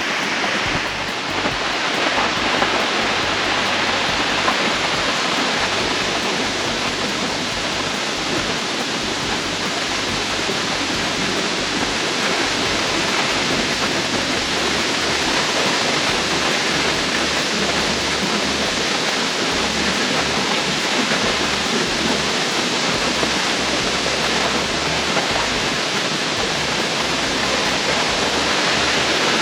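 Steady rush of a waterfall, falling water with no let-up.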